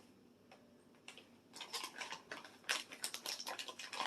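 Light clicking, tapping and rustling of food toppings being handled and added to a split cucumber, starting about a second and a half in and growing busier.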